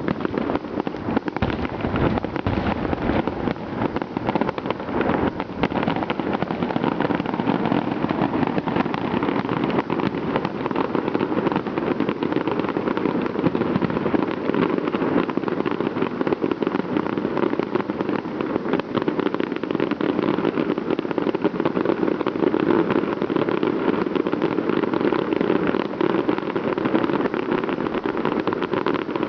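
Fireworks display in a continuous barrage: many overlapping bangs and crackles running together into a steady din, with no single standout blast.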